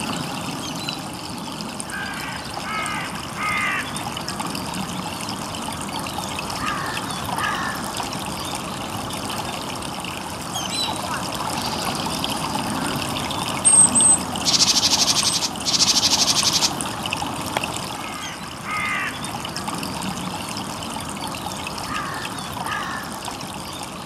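Small songbirds calling: short chirps falling in pitch, in groups of two or three, come several times. Past the middle there are two loud buzzy rattles of about a second each. A steady rushing hiss runs underneath.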